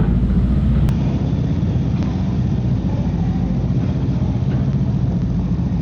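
Steady low engine rumble, with a sharp click about a second in where the recording cuts.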